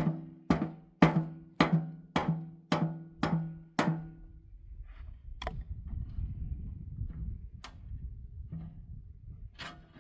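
Repeated blows on a hollow object that rings with a short low tone, about two strikes a second, stopping about four seconds in. Low rumbling and scattered light knocks follow.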